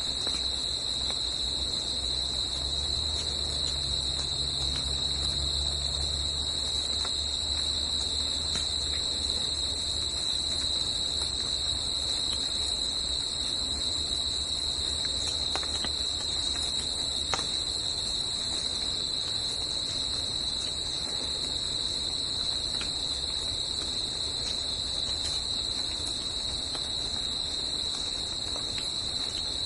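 Crickets trilling in a steady, unbroken chorus at one high pitch. A low rumble sits underneath for the first third and fades away, with a few faint ticks about halfway through.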